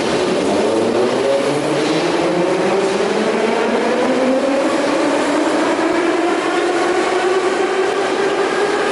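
Metro train pulling away, its electric traction motors whining in several tones that climb slowly and steadily in pitch over the running rumble as it accelerates.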